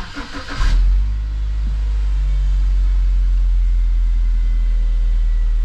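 BMW N46 four-cylinder petrol engine cranking briefly on the starter and catching about half a second in, flaring up for a moment and then settling into a steady idle. It is starting on a newly fitted Valvetronic motor and eccentric shaft sensor, the fix for rough running, stalling and a 2851 fault code.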